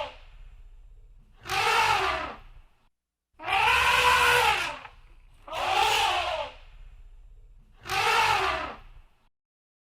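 Elephant trumpeting: four separate blasts of about a second each, the second one the longest, each rising and then falling in pitch.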